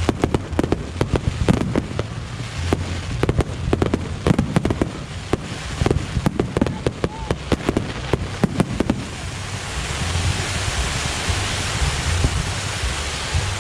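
Aerial fireworks display: a rapid series of bursting shells and bangs, which about nine seconds in give way to a dense, steady crackling hiss.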